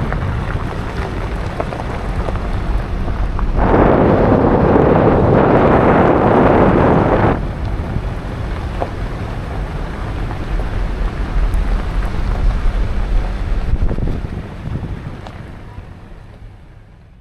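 Wind rushing over the microphone with a steady low rumble. It swells to a louder rush about four seconds in that lasts a few seconds, then fades away near the end.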